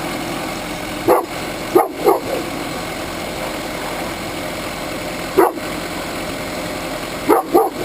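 Dogs barking in short separate barks, about six in all: one near the start, a pair around two seconds in, one in the middle and a quick pair near the end. Under them runs the steady drone of the Wood-Mizer bandsaw mill's engine.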